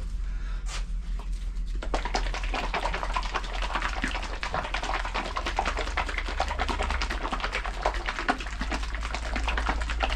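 A bottle of Raptor liner being shaken hard by hand, a fast continuous sloshing rattle that starts about two seconds in. A steady low hum runs underneath.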